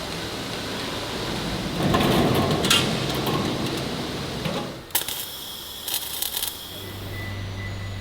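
Factory work noise: a steady noisy bed that grows louder about two seconds in, a few sharp clanks midway, and a steady low hum starting near the end.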